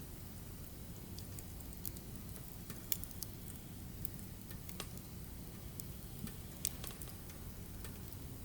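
Burning firewood crackling, with irregular sharp pops and snaps over a low steady rumble; the loudest pops come about three seconds in and again near seven seconds.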